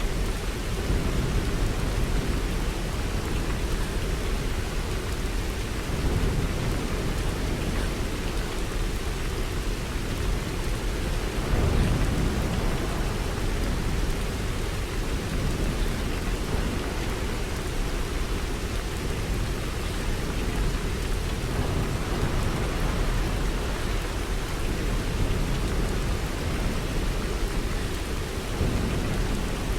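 Steady rain falling, with a low rumble beneath it that swells briefly about twelve seconds in.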